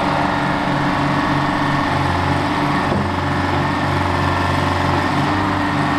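Engine of a Warner & Swasey Hopto H-1900 hydraulic excavator running steadily, with an even, regular pulse in its low drone.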